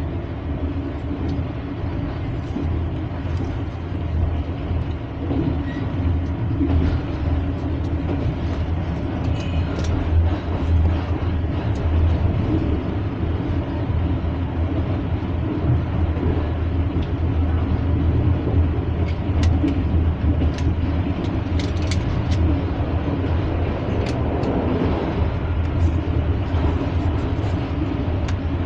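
Train running at speed, heard from inside the carriage: a steady low rumble of wheels on rail, with a few sharp clicks in the second half.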